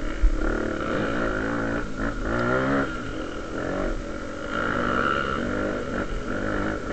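Honda Tornado trail motorcycle with its single-cylinder engine enlarged to 293 cc, revving up and down as it rides. There is a short sharp thump about a quarter second in.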